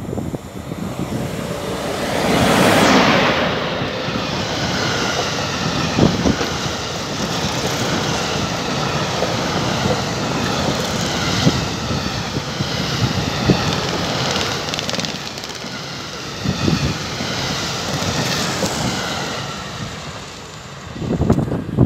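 Freight train passing at speed. The locomotive goes by about three seconds in with a loud rush that falls in pitch. A long string of wagons carrying semi-trailers follows, rumbling by with scattered knocks of wheels over the rails, and the noise drops away near the end as the last wagon passes.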